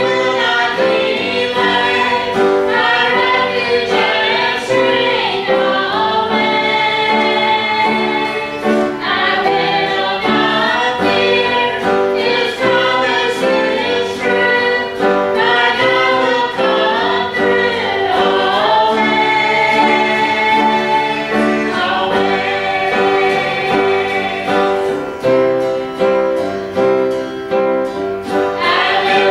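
Gospel song sung by a group of singers with piano accompaniment, the voices holding long notes over a steady repeated low note.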